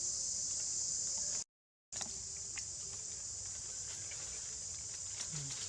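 Steady, shrill chorus of insects. A moment of dead silence about a second and a half in breaks it where the audio cuts, and a few faint ticks follow.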